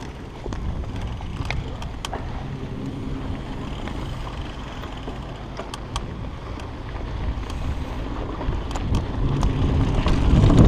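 Mountain bike rolling down a dirt trail: wind rumbling on the microphone and tyre noise, with scattered clicks and rattles from the bike. The sound grows steadily louder as it picks up speed.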